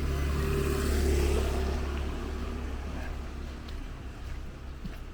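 A motor vehicle's engine running close by: a low steady hum that is loudest about a second in and then slowly fades as it moves away.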